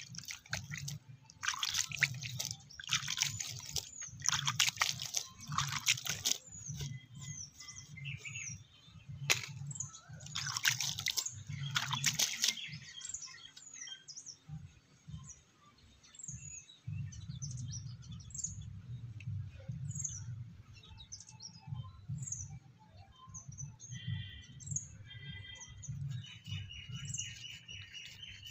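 Small birds chirping and calling throughout, with a trill near the middle of the second half and a steady high-pitched call near the end. Several loud rushing bursts of noise in the first twelve seconds cover the birds for a while.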